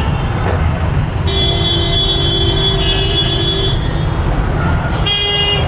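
City traffic heard from a moving motorbike: a steady low road-and-engine rumble, with a vehicle horn honking for over two seconds about a second in and another short honk near the end.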